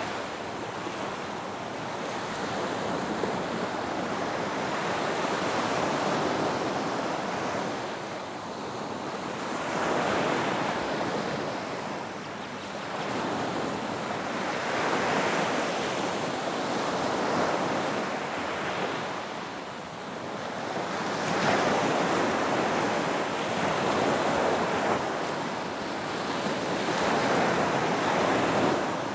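Ocean waves breaking on a beach: a continuous wash of surf that swells and eases again every few seconds.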